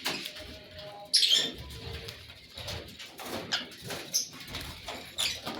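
Fisher's lovebirds calling with short, sharp, high chirps, the loudest just over a second in, among scattered clicks and rustles.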